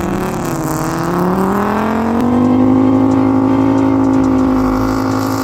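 Audi Quattro's five-cylinder engine revving, its pitch climbing over the first couple of seconds and then held steady at high revs.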